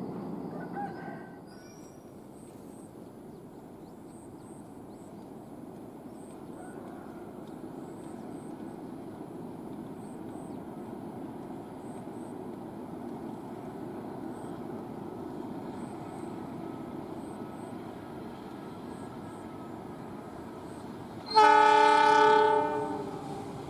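A train approaching along the line, its rumble growing slowly louder, then near the end a diesel locomotive's horn sounds one loud blast of about a second and a half.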